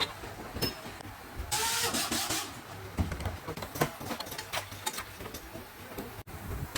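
Motorcycle-factory work noise: scattered knocks and clicks of metal parts and tools, with a loud hiss lasting about a second a little way in.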